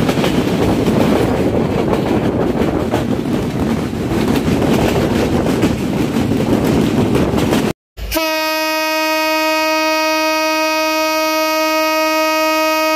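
Running noise of a passenger train heard from an open coach window: steady rumble with clickety-clack of the wheels over the rail joints. About eight seconds in it cuts off abruptly, and a single steady horn-like tone takes over and holds unchanged.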